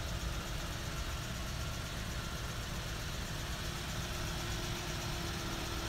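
A car engine idling: a steady low rumble with a faint steady hum over it.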